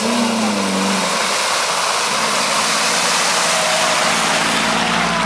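An off-road vehicle's engine running. Its note drops over the first second and then holds steady, under a loud rushing noise of wind or tyres.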